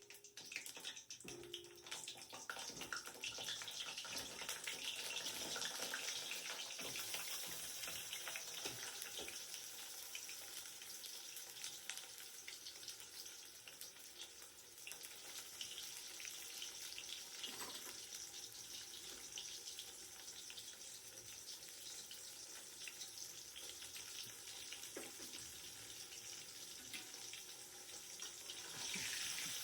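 Food sizzling steadily in hot oil in a cooking pan, with scattered small clicks and knocks.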